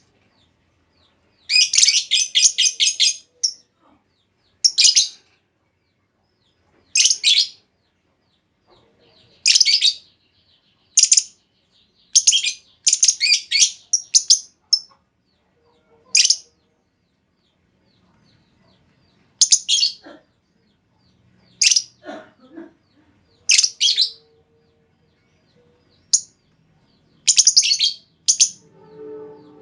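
Female lovebird calling: a rapid chattering trill of sharp, high-pitched chirps about a second and a half in, then short bursts of shrill chirps every one to three seconds.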